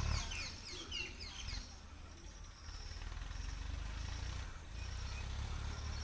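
Birds chirping in a quick run of short, falling notes during the first second and a half, over a steady low rumble, then quieter outdoor background.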